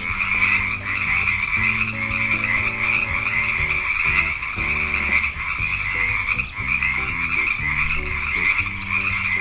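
Frog croaking continuously in a rapid, pulsing run.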